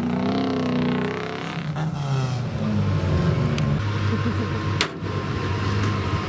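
Off-road competition vehicle's engine revving up and down. A single sharp knock comes near the end.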